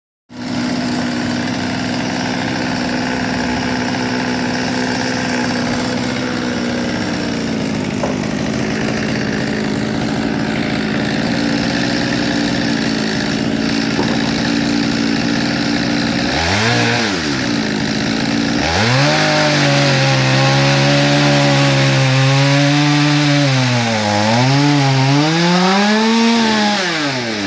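Gas chainsaw cutting through an oak sample, running at high revs. Its pitch holds steady for most of the time, then dips sharply twice around the middle, settles lower, and swoops down and back up several times near the end as the engine revs change.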